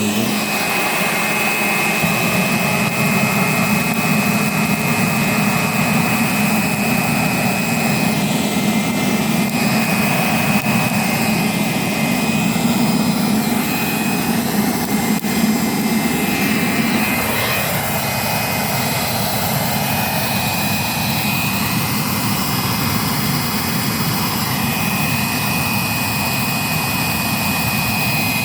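Homemade metal forge running with a loud, steady rushing roar and a thin high whine over it; the sound shifts slightly about halfway through.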